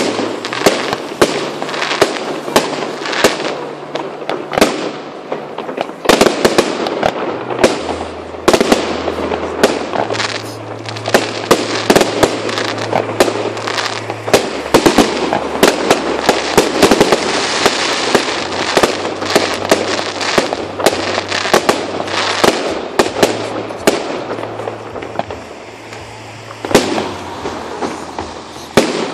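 Aerial fireworks bursting overhead: a rapid, continuous run of sharp bangs and cracks, many a second, thinning out a little near the end.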